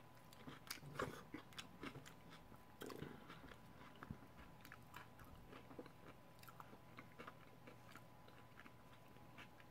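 Faint, close-miked chewing of a crispy fried-tortilla taco: an irregular run of small crunches and mouth clicks, a few a second.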